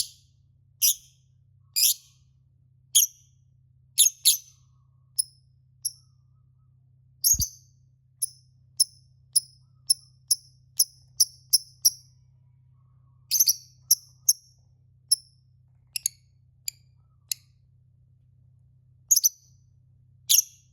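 A lovebird giving short, sharp, high-pitched chirps, singly and in small clusters, with a faster string of about two chirps a second in the middle. A faint steady low hum lies underneath, and there is a single soft knock about seven seconds in.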